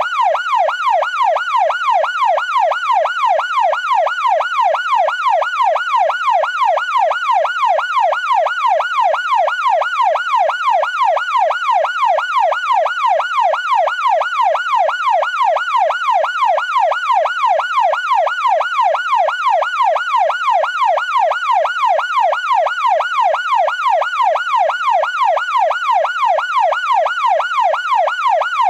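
Ambulance siren in a fast yelp, its pitch sweeping up and down a few times a second, steady and unbroken.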